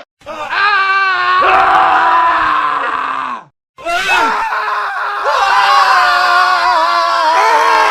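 Men screaming: several separate scream clips cut one after another, with two brief silent gaps between them. One scream falls in pitch as it ends, about three seconds in, and a long scream follows the second gap.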